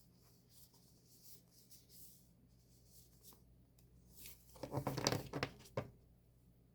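Paper and plastic album packaging handled close to the microphone: faint rustling, then a brief burst of crinkling and rustling about four and a half seconds in.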